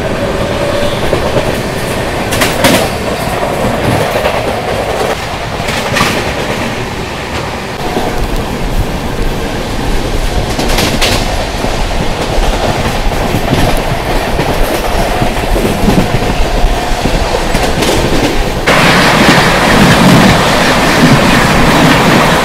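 Brahmaputra Mail express train running along the track, heard from on board: a steady rumble with a few sharp clacks from the wheels over rail joints. Near the end the noise jumps suddenly louder into a brighter, steady rush.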